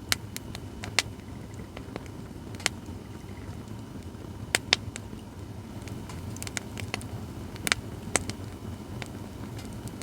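Acacia firewood burning in a fire pit, crackling with sharp, irregular pops over a steady low rumble.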